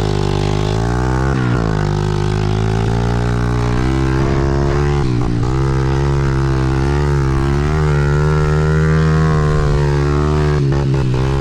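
Dirt bike engine running under way, its pitch rising and falling as the rider works the throttle, with brief drops about a second in and again near five seconds.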